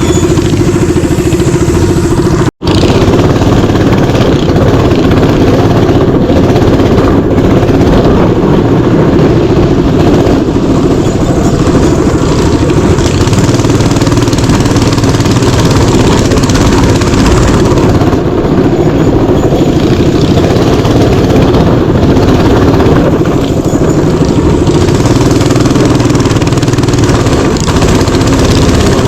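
Mini bike engine running under load while riding a dirt trail, loud and steady. It breaks off for a split second about two and a half seconds in.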